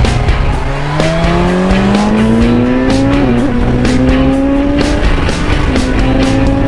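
Motorcycle engine accelerating, its pitch rising steadily, then dipping briefly about three seconds in as it shifts and holding at a steady speed. Background music with a steady beat plays along.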